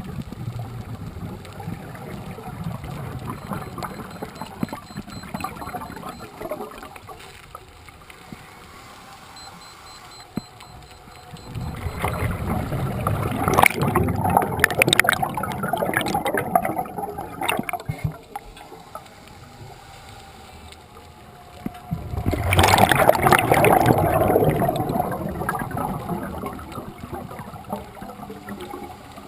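Scuba diver's exhaled bubbles gurgling up past the microphone underwater, in two loud bursts about ten seconds apart, with quieter sound between breaths.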